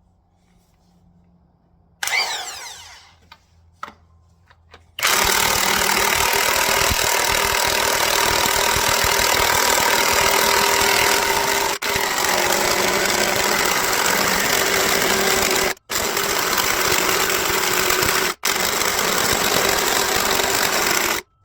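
Power impact wrench running in long bursts, with three brief stops where the trigger is let go, after a short spin-up about two seconds in.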